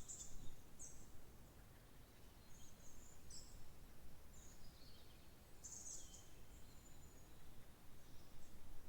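Small songbirds chirping and trilling in short high phrases, several calls scattered over a soft steady background hiss.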